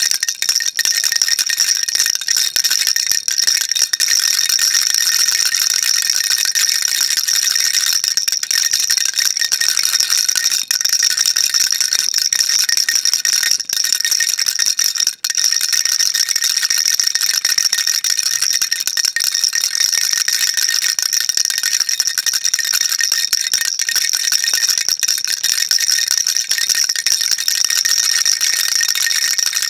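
Baby rattle shaken without pause: a dense, steady, high-pitched rattling of small beads, with one momentary break about fifteen seconds in.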